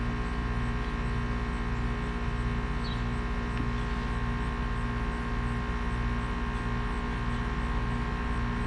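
A steady electrical hum made of many fixed tones, with a low pulsing about twice a second.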